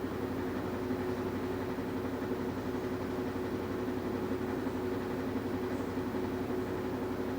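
Washing machine running with a steady motor hum and a fine rapid flutter.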